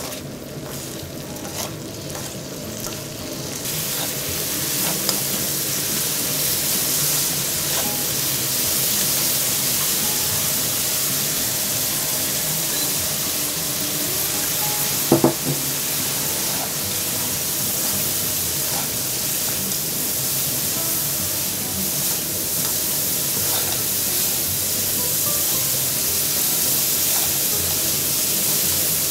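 Small dried anchovies frying in sauce in a hot nonstick pan, stirred with wooden spatulas. The sizzling builds a few seconds in as the heat comes up, then holds steady. About halfway through there is a brief clatter as chopped nuts are poured in.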